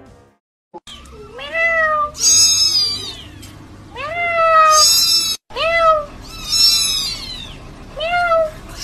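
Young kittens mewing, about seven short mews that each rise then fall in pitch. Lower meows alternate with very high, thin ones.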